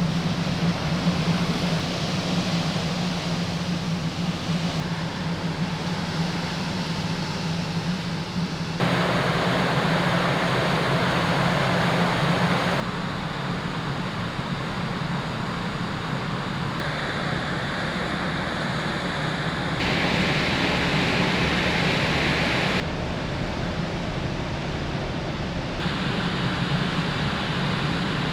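Steady low hum of a large ferry's engines under a rushing haze of wind and sea, the balance of the rushing noise jumping abruptly every three or four seconds.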